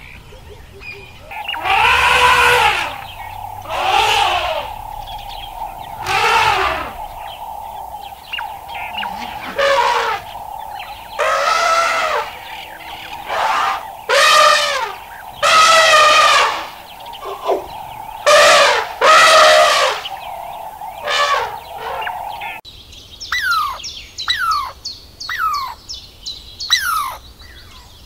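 Animal calls: loud, repeated calls that rise and fall in pitch, about one every two seconds, over a steady high tone. Near the end the sound changes abruptly to a quick series of chirps sweeping downward, about two a second.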